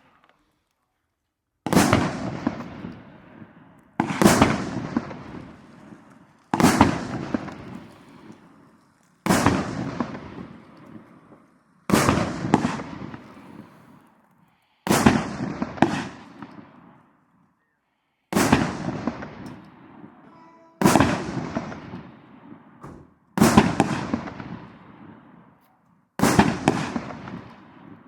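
A 25-shot, 50 mm display fireworks cake firing: a sharp bang about every two and a half seconds, with two close together near the middle, each followed by a long fading tail.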